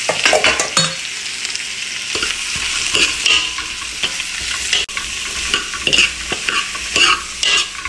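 Chopped red onion sizzling in hot oil in a steel wok, stirred with a spatula that scrapes against the pan in repeated strokes over a steady frying hiss.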